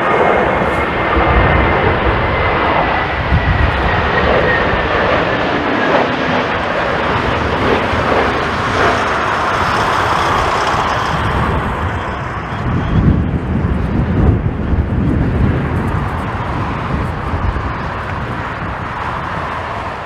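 Jet airliner passing low on final approach: loud, steady engine noise with a thin whine that falls gently in pitch over the first few seconds, and a ragged low rumble under it. The noise eases a little near the end.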